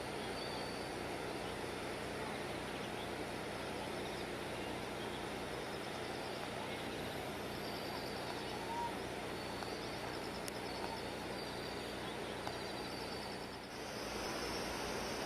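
Steady rushing noise of the Tonda River in flood after Typhoon No. 12, with faint high chirps repeating over it. The noise dips briefly and changes in tone near the end.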